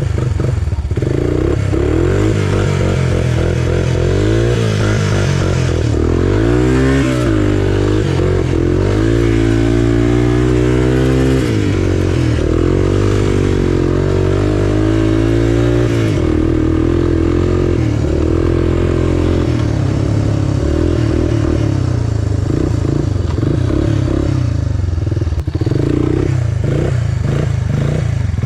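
Small off-road engines of three-wheelers or a dirt bike running while being ridden, the pitch rising and falling as the throttle opens and closes, with the most revving in the middle stretch.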